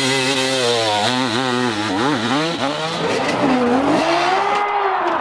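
Dirt bike engine revving hard on a steep climb, its pitch jumping up and down quickly as the throttle is worked, then rising and falling more slowly after about three seconds.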